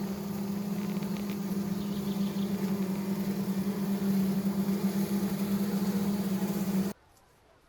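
A mass of honey bees buzzing: a steady, even hum that cuts off suddenly near the end.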